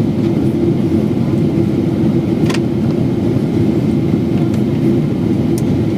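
Steady cabin noise inside a Boeing 777-300ER airliner during descent: the rush of airflow and the GE90 engines, a deep, even hum. Two faint clicks come about two and a half seconds in and near the end.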